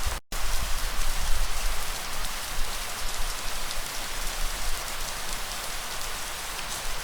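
Steady, heavy rain falling with a continuous hiss and a low rumble beneath it. The sound cuts out completely for a split second near the start, then resumes.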